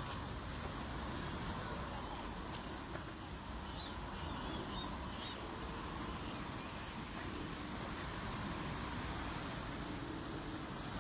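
Steady low background rumble with a few faint, high bird chirps about four to five seconds in.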